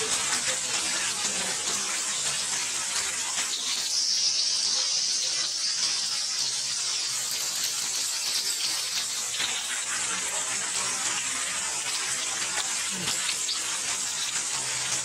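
Heavy rain pouring down in a steady hiss, heaviest for a few seconds about four seconds in.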